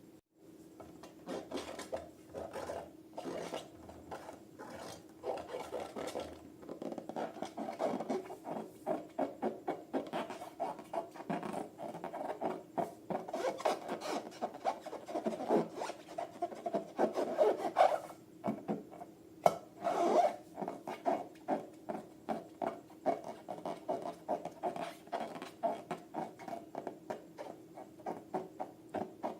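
Slime being mixed and worked by hand: repeated rubbing, squishing strokes, a few at first, then steady at about two a second.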